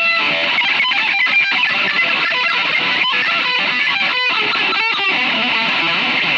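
Rock instrumental with an electric guitar playing a fast lead, many short notes in quick succession.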